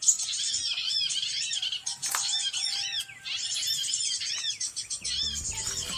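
Small birds chirping rapidly and densely in repeating high phrases, with hardly a break. A low musical beat comes in about five seconds in.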